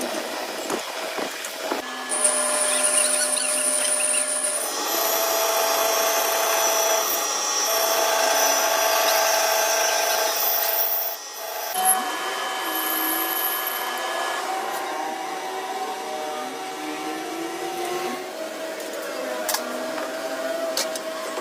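Power tool running during gear repair work: a steady machine whine that shifts pitch abruptly several times, with scattered clicks.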